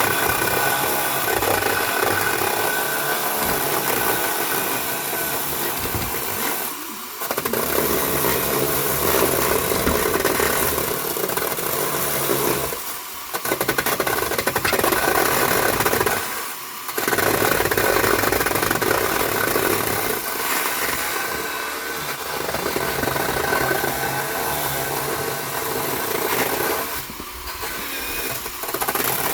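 Power driver running under load, driving long screws into pallet wood. It runs in several long bursts of a few seconds each, with brief pauses between them about 7, 13, 16 and 27 seconds in.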